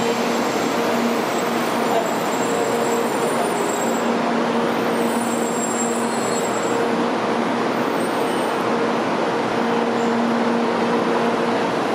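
700-series Shinkansen train pulling slowly into the platform: a steady rumble with a constant low hum, under a murmur of waiting passengers.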